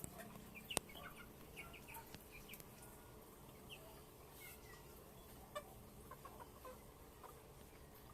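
Chickens clucking faintly in short scattered calls, with a sharp click about a second in.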